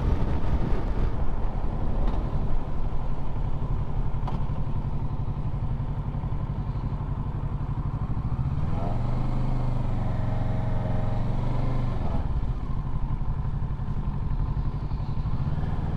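Motorcycle engine running at a steady cruise with wind and road rush, heard from on the bike. For a few seconds past the middle a stronger, steadier engine tone comes in, then fades back.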